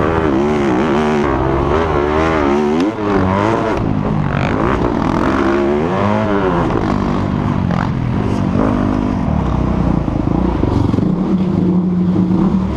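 Dirt bike engines on a motocross track, revving up and down again and again as they accelerate and shift, with a steadier held note near the end.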